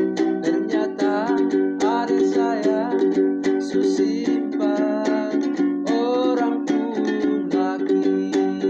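Ukulele strummed in a steady rhythm, about four strokes a second, with a melody line bending up and down above the chords.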